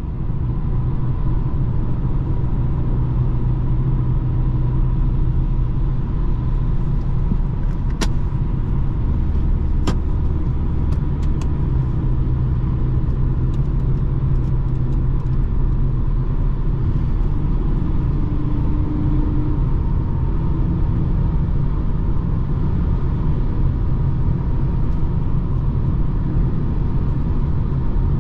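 BMW 220d's four-cylinder diesel engine and road noise while driving, a steady low rumble with a constant hum. Two sharp clicks are heard about 8 and 10 seconds in.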